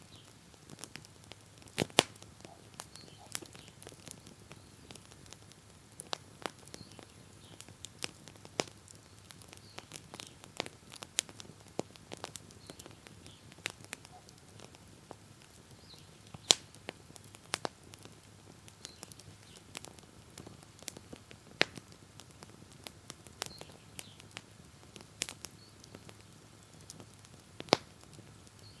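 Wood bonfire crackling: a steady scatter of irregular sharp pops and ticks, with a few louder snaps now and then.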